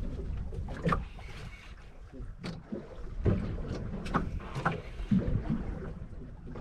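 Wind rumbling on the microphone aboard a small fishing boat at sea, with a few short knocks.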